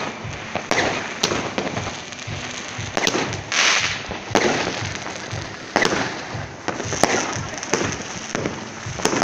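New Year's Eve fireworks going off: sharp bangs every second or so over a steady crackle of distant ones, with a hissing rush about three and a half seconds in.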